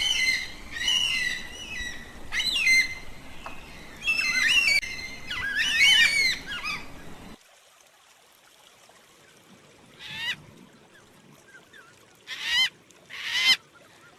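Yellow-tailed black cockatoos calling: loud, wavering wails in overlapping bursts from several birds. About halfway through the background hiss drops suddenly, and three separate calls follow, the last two close together.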